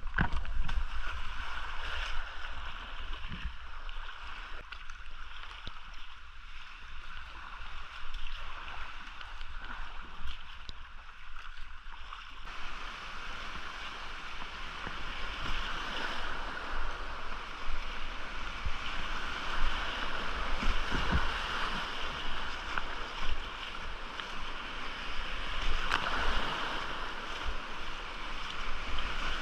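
Whitewater of a swollen creek rushing steadily, with low buffeting from wind and handling on a GoPro's microphone. The water noise grows fuller about twelve seconds in.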